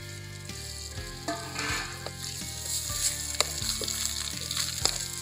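Potato slices sizzling in hot oil in an aluminium kadai, freshly added and starting to fry, the sizzle growing louder about halfway through. Scattered light knocks as the potatoes are stirred in the pan.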